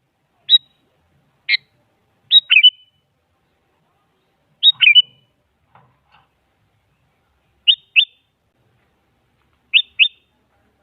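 Sooty-headed bulbul calling in short, sharp notes, singly or in quick twos and threes, with clear gaps of one to three seconds between phrases.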